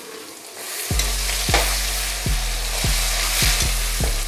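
Onion, ginger and garlic paste sizzling as it fries in hot oil in a steel kadhai. The sizzle swells about a second in. A steel spatula stirs it, clinking against the pan several times.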